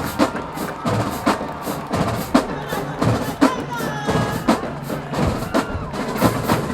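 Marching band drumline playing a cadence: sharp drum and rim hits over crowd voices.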